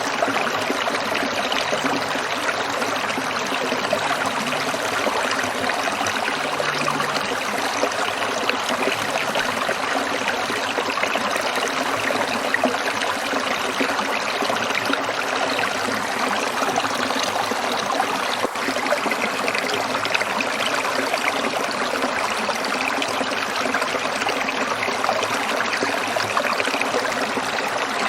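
Water trickling and splashing over stones in a small stream, a steady running wash.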